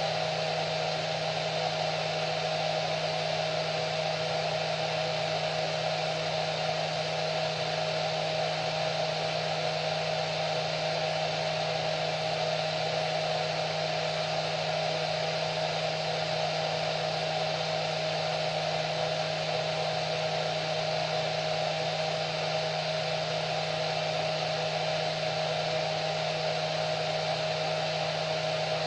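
Hair dryer running continuously: a steady rushing of air with an unchanging hum of the motor and fan.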